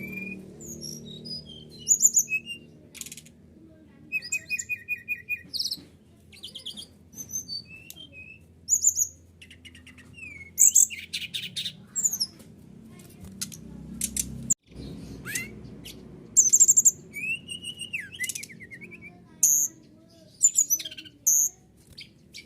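Brown-chested jungle flycatcher (SRDC) singing a varied song of sharp chirps, whistled slides and rapid trills, with a low steady hum beneath.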